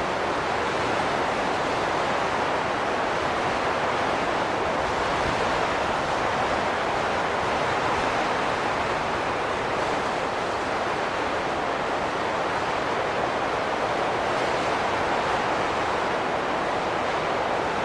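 Strong wind blowing steadily, a continuous even rush of noise with no gusts or breaks.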